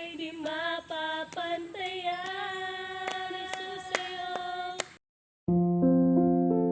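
A woman's voice singing a Tagalog worship song without accompaniment, with a few sharp clicks in its last seconds. The singing cuts off abruptly about five seconds in, and after a brief silence, soft electric piano music begins.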